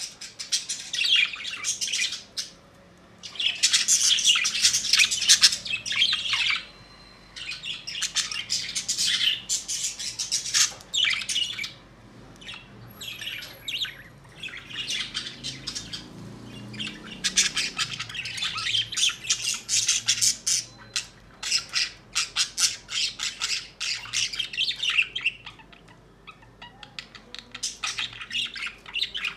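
A bird calling in rapid strings of short, high notes, in bouts a few seconds long with short pauses between.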